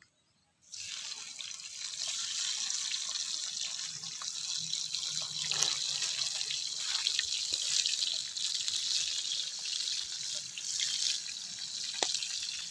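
Tomatoes frying in hot oil: a steady sizzle with scattered crackles and pops, starting suddenly a little under a second in.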